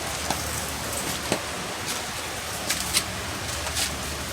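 Steady rain falling outdoors, an even hiss with scattered drips ticking on nearby surfaces, over a steady low hum.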